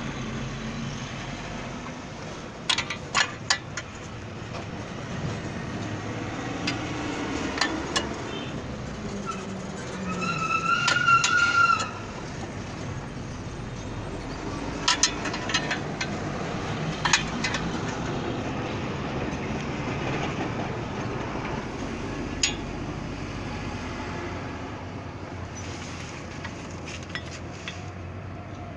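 Steady workshop din with scattered sharp metallic clinks, like tools or parts knocking together, and a brief high whine lasting about two seconds near the middle.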